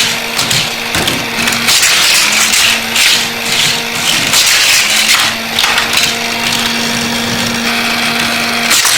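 Battery-powered motorized booster of a Hot Wheels toy car track whirring steadily, with diecast cars clattering over the plastic track in repeated short rattles.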